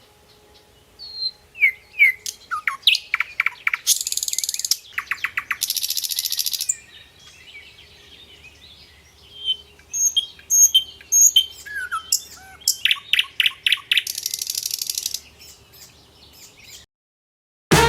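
Wild birds calling: short downward-sliding chirps, fast buzzy trills lasting about a second each, and clear whistled notes about ten seconds in. The birdsong stops abruptly near the end and music starts right at the close.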